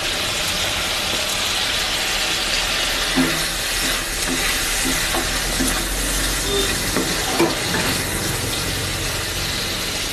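Potato pieces in spice masala sizzling steadily in a hot metal kadai as they are fried, stirred with a wooden spatula, with a few short scrapes and knocks of the spatula against the pan a few seconds in.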